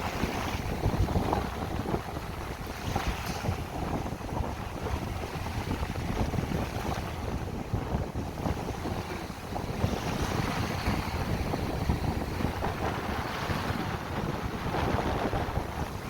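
Wind buffeting the microphone over the rush and splash of water under a windsurf board moving across choppy water, with surges of splashing every few seconds.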